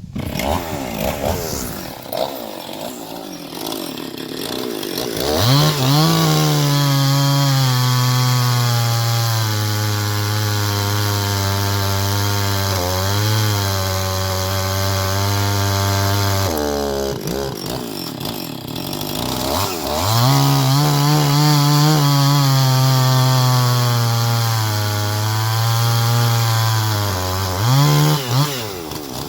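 Chainsaw with a 24-inch bar cutting through a log. It revs up about five seconds in and runs at full throttle, its pitch sagging under the load of the cut. It eases off for a few seconds partway through, then cuts again and gives a couple of short revs near the end.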